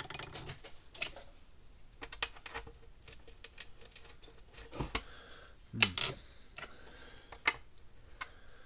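Irregular sharp clicks and short scrapes of a hand tool working at the tamper-proof screws on a plastic solar fence charger case, with a few louder knocks about five and six seconds in.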